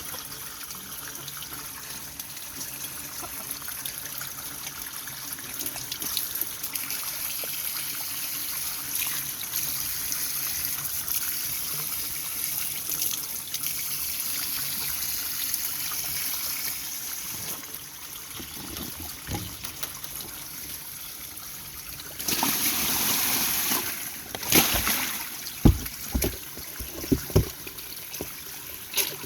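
Water trickling steadily. Near the end there is a louder rush of noise lasting about two seconds, followed by several sharp knocks.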